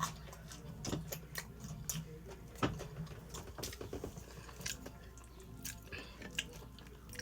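A person chewing pizza close to the microphone, with scattered small clicks and mouth sounds over a faint low steady hum.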